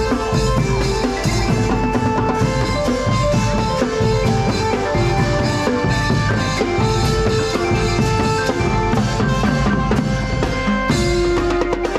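Thai brass band (trae wong) playing a tune over a drum-kit beat with bass drum, the horns holding long notes.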